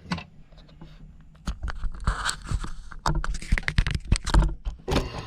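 Irregular clicks and scraping of parts and tools being handled on a motorcycle carburetor at the start of its teardown, busiest from about a second and a half in.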